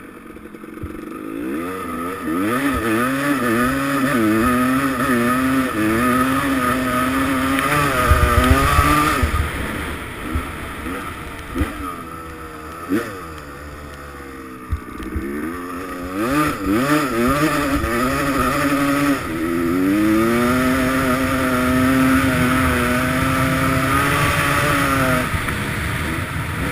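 Dirt bike engine revving hard, its pitch climbing and dropping over and over as the rider works the throttle. It comes in two loud runs with a quieter lull between them.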